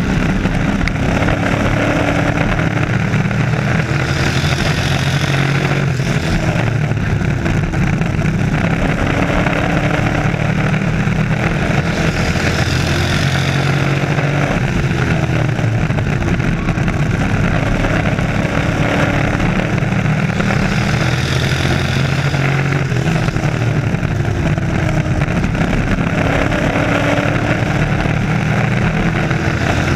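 Race truck engines running at speed around a short oval, a loud continuous drone whose pitch rises and falls and that swells about every eight seconds, once a lap.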